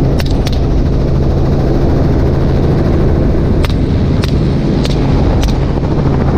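Steady helicopter engine and rotor drone, with about six sharp rifle shots: two close together at the start, then four spaced roughly half a second apart from the middle on.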